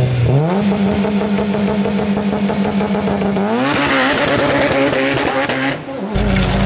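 All-wheel-drive car's engine held at steady high revs on the line, then launching and accelerating hard about three and a half seconds in, with a brief break in the sound near six seconds, like an upshift.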